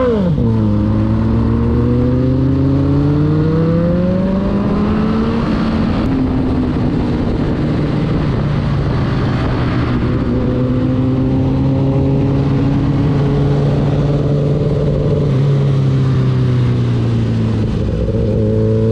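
Motorcycle engine running under way. Its pitch climbs over the first few seconds as it accelerates, then holds fairly steady with small rises and falls.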